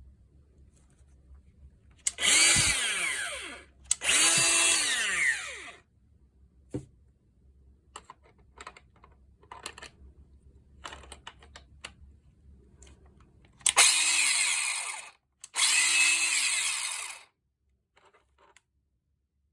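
Makita GA402D cordless disc grinder switched on four times in two pairs, each time spinning up for about a second and a half before winding down. This grinder has an abnormal noise whose cause is being sought. Faint handling clicks fall between the runs.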